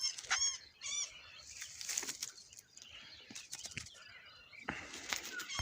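Captured small songbirds fluttering their wings in short bouts, with a few high chirps in the first second.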